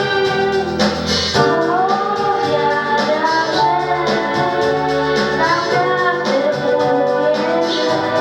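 A girl singing solo over instrumental backing music, holding and bending long notes.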